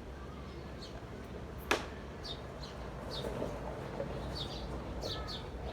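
Small songbirds chirping in short, high, downward-sliding notes, repeated irregularly, over a low steady background rumble; a single sharp click sounds about 1.7 seconds in.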